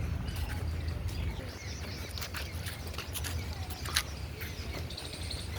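Outdoor garden background with a steady low rumble and scattered short bird chirps, and one sharp click about four seconds in.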